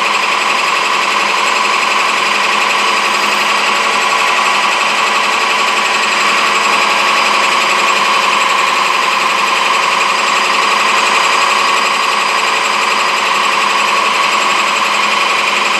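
Metal lathe running steadily with a loud, rapid rattle while turning down a Delrin (acetal plastic) bushing.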